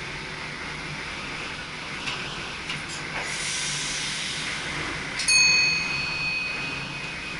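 Steady running noise in the cab of an SGM Sprinter electric train. A brief hiss comes a little after three seconds in. About five seconds in a single bright chime sounds in the cab and rings away over about two seconds.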